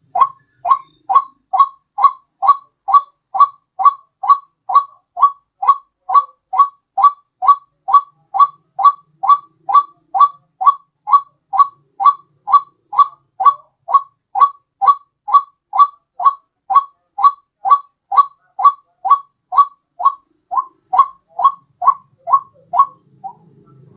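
White-breasted waterhen (ruak-ruak) lure call: short, identical calls repeated evenly a little over twice a second, stopping shortly before the end.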